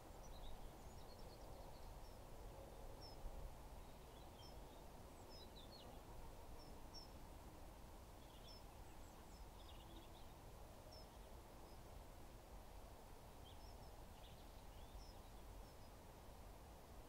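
Faint outdoor ambience: a low steady rumble with scattered short, high bird chirps.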